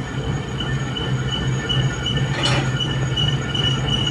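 A machine running steadily, with a high whine over a low hum and one short rasp about two and a half seconds in.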